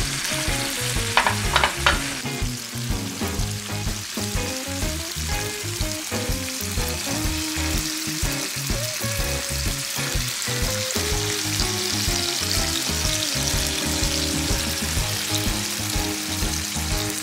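Bacon-wrapped rice rolls sizzling steadily in hot oil in a frying pan, with two short clicks about a second in.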